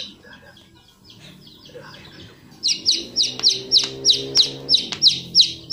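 A small bird chirping rapidly: a run of short, high chirps, each falling in pitch, about four a second, starting about halfway through after a quiet stretch. A few faint knocks sound among the chirps.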